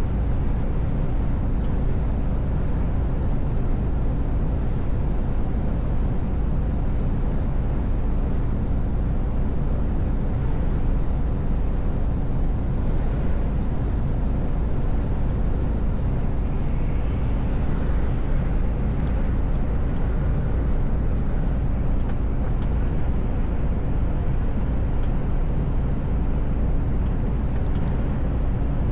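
Mercedes Actros L truck cruising on the road: a steady, deep diesel engine and road rumble with a constant hum. A brief hiss rises over it about two-thirds of the way through.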